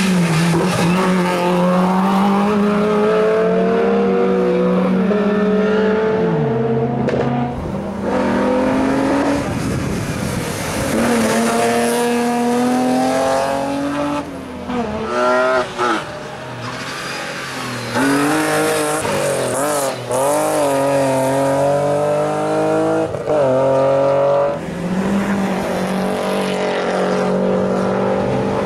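Rally cars on a special stage, engines revving hard: the pitch climbs steadily, drops sharply at each gear change, then climbs again, several times over.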